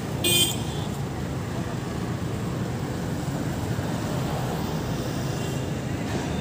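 Busy city-street ambience: steady traffic noise with a murmur of voices, and a brief high-pitched metallic ring about half a second in.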